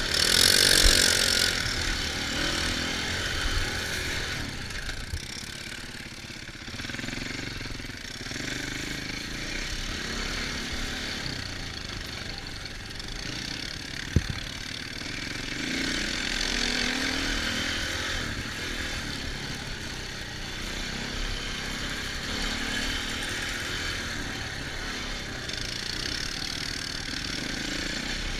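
Off-road engines of dirt bikes and four-wheelers running and revving up and down as they ride, loudest just after the start. A single sharp knock about halfway through.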